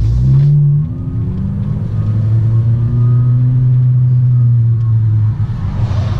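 Exhaust of a 2017 Honda Civic 1.5-litre turbocharged four-cylinder with a catless downpipe and no muffler, running loud under way. The engine note climbs briefly, falls away about a second in, then holds a steady drone that swells slightly and dips near the end.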